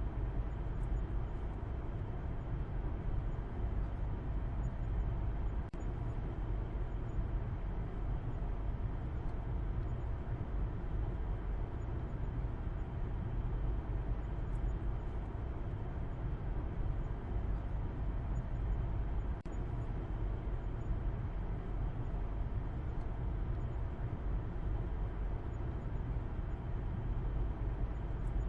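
Steady low rumble of a car driving, an even mix of engine and road noise with no changes in pace.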